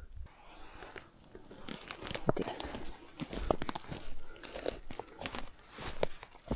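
Irregular crunching and rustling close to the microphone, loudest from about two seconds in.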